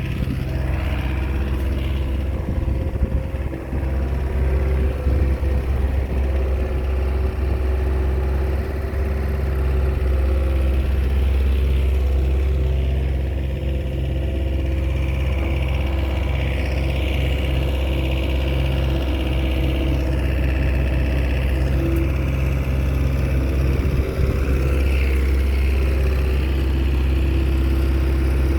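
Diesel engine of a small Komatsu bulldozer running steadily with a deep drone while the dozer works soil.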